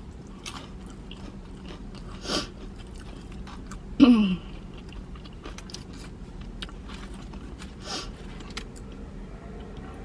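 Close-miked chewing and biting of food, with many small wet mouth clicks and crunches. Two or three short vocal noises from the eater break in, the loudest about four seconds in, falling in pitch.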